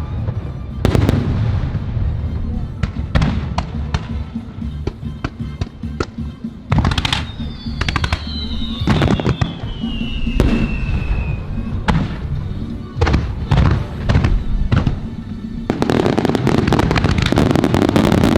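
Fireworks shells bursting in quick succession, deep booms one after another, turning into a dense crackling barrage near the end, with music playing underneath.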